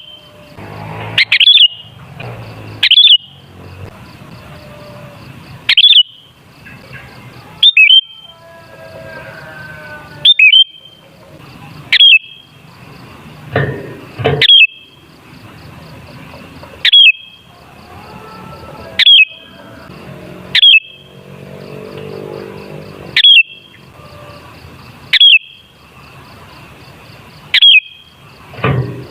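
Sooty-headed bulbul calling: short, loud, sharp notes repeated every one to two seconds, sometimes in quick pairs.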